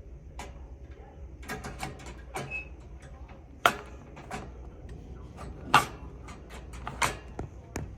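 Irregular sharp clicks and taps, some a good deal louder than others, with a brief high chirp about two and a half seconds in.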